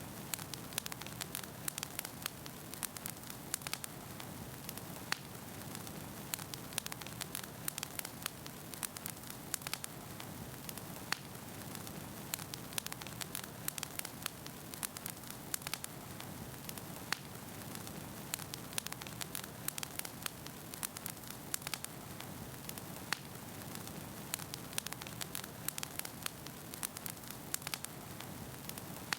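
Wood fire burning in a fireplace: a steady low hiss with many irregular sharp pops and crackles of burning logs.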